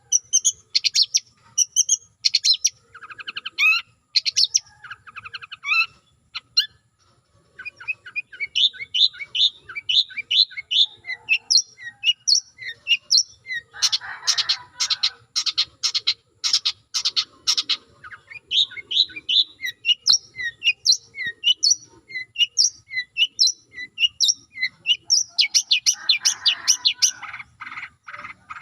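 Songbird song played as a tutor recording for long-tailed shrikes: quick runs of sharp chirps and down-slurred whistles, broken by harsh, rapid buzzy rattles about halfway through and again near the end.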